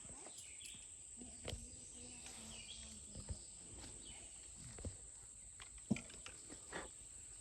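Quiet woodland ambience: a steady high-pitched insect drone with faint scattered bird chirps and small clicks and rustles. One sharper click comes about six seconds in.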